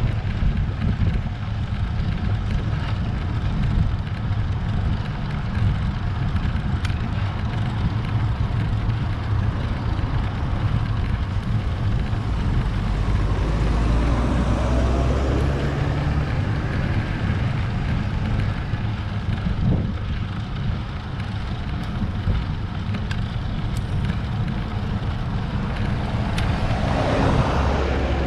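Wind buffeting and road rumble on a road bike's action-camera microphone while climbing. A swell of louder noise comes about halfway and again near the end.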